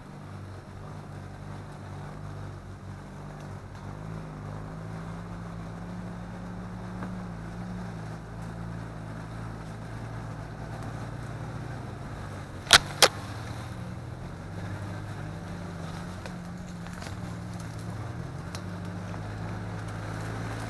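Off-road SUV engine running at low revs while crawling over rough ground, its pitch rising and falling with the throttle. About halfway through, two sharp knocks a fraction of a second apart are the loudest sounds.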